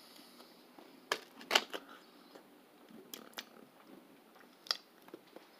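Chewing a mouthful of raisin bread with peanut butter: a few faint, irregular wet mouth clicks, the sharpest about a second and a half in.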